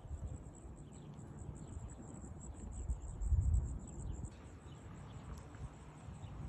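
Insects trilling steadily outdoors in a high, fast-pulsing buzz, over a low rumble that swells briefly about three seconds in.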